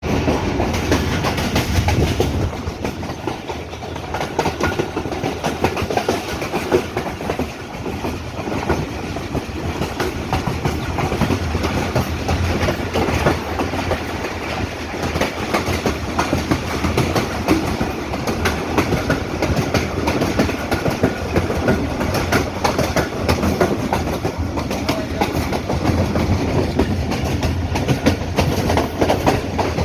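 Hazara Express passenger train running along the track: steady rumble of wheels on rail with a continuous clickety-clack of wheels over the rail joints.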